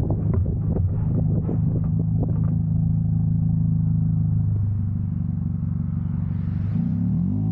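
2000 Honda Civic's D-series four-cylinder engine running at a steady speed under way, with a few light knocks in the first couple of seconds. Near the end the engine note begins to waver as the revs change.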